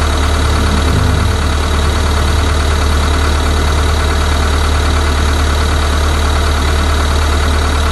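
Kia Bongo 3's diesel engine idling steadily.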